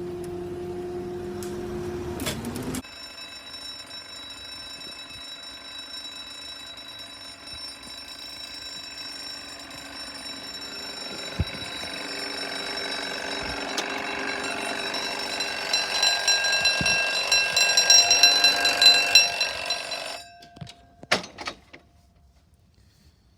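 Level crossing audible warning alarm sounding in steady tones, growing louder, then cutting off suddenly about twenty seconds in, followed by a few clicks. In the first three seconds a steady hum with a rising tone cuts off abruptly.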